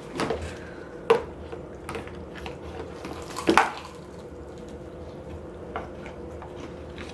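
Scattered clinks and knocks of cutlery and dishes at a dinner table, the sharpest about a second in and at three and a half seconds, over a steady background hum.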